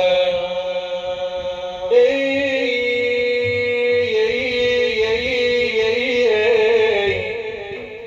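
A male devotional praise singer holding long drawn-out notes in a melismatic Arabic chant. The pitch steps to a new note about two seconds in, wavers from about four seconds, and fades near the end.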